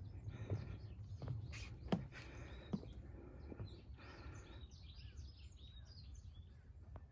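Small birds chirping, a run of quick high calls thickest in the second half, over a steady low outdoor rumble, with a few sharp knocks in the first three seconds.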